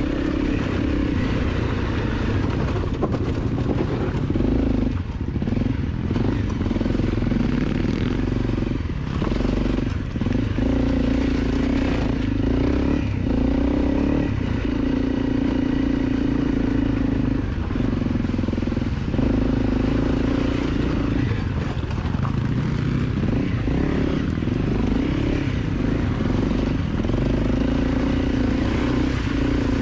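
Dirt bike engine running under throttle. It drops briefly a dozen or so times at uneven intervals as the throttle is rolled off and on.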